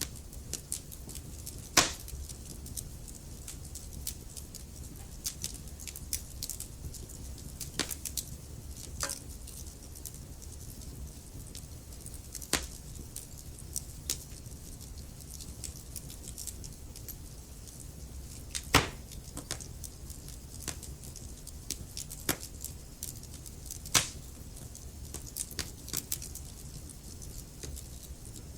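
Wood fire burning in a fireplace: a steady low rumble with irregular crackling and a few louder sharp pops from the burning logs.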